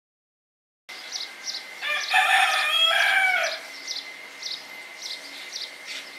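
After about a second of silence, a rooster crows once, loud and drawn out for about a second and a half, its pitch dropping at the end. Around it, small birds chirp in short high calls about twice a second over a steady thin high tone.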